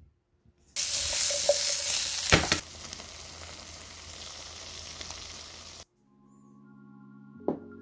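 Sausages and vegetables sizzling in a hot frying pan. The sizzle starts suddenly about a second in, is loud at first with one sharp knock, then drops to a quieter sizzle and cuts off about six seconds in. Music begins near the end.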